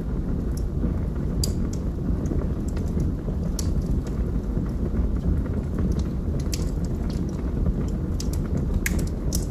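Wood fire burning in a fireplace, logs crackling: irregular sharp pops and snaps over a steady low rumble.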